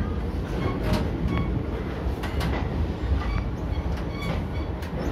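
Passenger train pulling out of a station, heard from a coach doorway: a steady low rumble of wheels on the track, with irregular clicks and a few brief high squeaks from the running gear and coaches.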